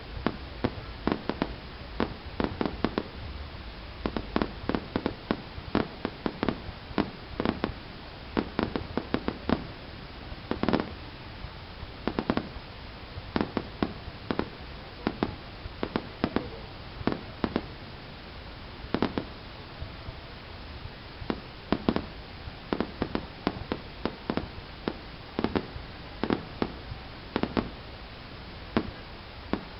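Fireworks going off: dozens of sharp bangs at irregular intervals, sometimes several in quick succession, over a steady low background noise.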